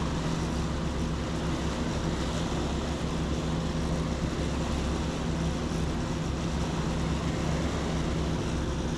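Steady low engine drone at a constant pitch, with no change in loudness.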